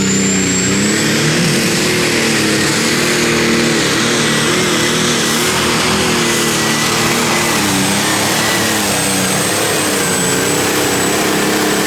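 Pulling tractor's engine at full power under load during a pull. A steady, loud drone wavers slightly in pitch, and a thin high whistle rises at the start and then holds.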